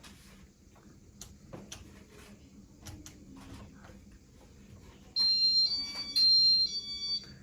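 Electronic beeps from a Casablanca Stealth ceiling fan's control as the fan is set to low speed: a quick run of four high tones alternating between two pitches, about five seconds in. Before them, faint taps and ticks.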